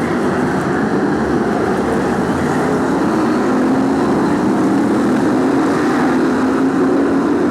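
BriSCA F1 stock car V8 engines running at race speed around the track, a steady loud drone whose pitch rises slowly through the middle.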